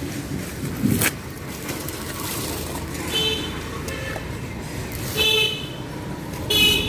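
Main-road traffic with vehicle horns honking in several short toots over a steady traffic rumble. A sharp click sounds about a second in.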